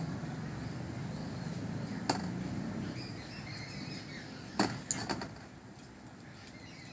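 A few sharp clicks of kitchen utensils, the dough being divided into portions: one about two seconds in and a quick cluster of three a little under five seconds in, with faint birdsong behind.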